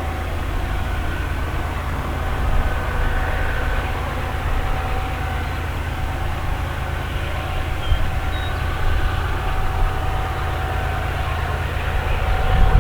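BNSF coal train passing, a steady low rumble with a faint thin tone that comes and goes above it.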